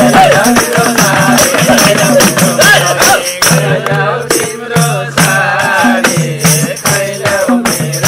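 Nepali folk music: a melody line over a steady beat with jingling, shaken percussion like a tambourine.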